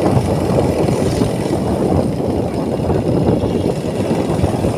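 Motorcycle ride noise: a steady rumble of the engine and wind against the microphone while under way.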